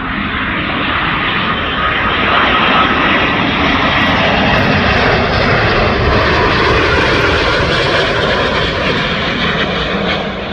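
Airbus A350-1000 airliner with Rolls-Royce Trent XWB turbofans passing low on final approach to land: a steady jet roar that swells over the first few seconds, holds, then fades toward the end.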